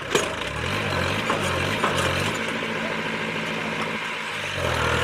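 Heavy vehicle engine working under load, its pitch shifting up and down. A sharp crack comes right at the start, with a few lighter cracks about a second and two seconds in.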